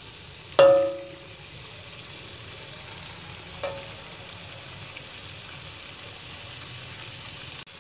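Ground spice paste with chopped shallots and chillies sizzling as it fries in a metal wok, being stirred with a metal spatula so it does not burn. The spatula strikes the wok with one loud ringing clang about half a second in and a lighter clink a few seconds later.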